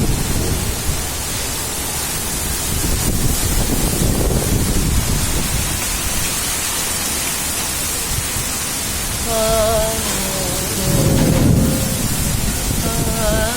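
Heavy rain falling steadily, with thunder rumbling low underneath. Twice, about nine seconds in and again near the end, a short pitched call rises briefly above the rain.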